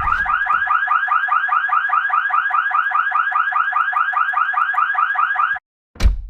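Rapidly pulsing electronic alarm tone, about five pulses a second, that stops abruptly after about five and a half seconds. A short thump comes just before it starts, and another near the end.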